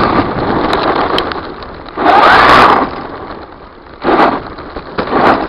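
Brushless electric motor of a Redcat Volcano RC truck running and revving in bursts, picked up by a camera mounted on the truck itself. The loudest burst, a whine that rises and falls, comes about two seconds in, with two shorter bursts near the end.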